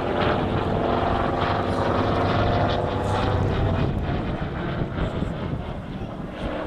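Hawker Sea Fury's Bristol Centaurus 18-cylinder radial engine running at display power as the fighter flies past, the sound easing off a little in the last second or two.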